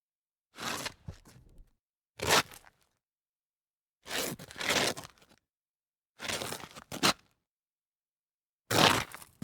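A series of scrapes of something sliding over rock: five separate slides, each half a second to a second and a half long, with silence between them.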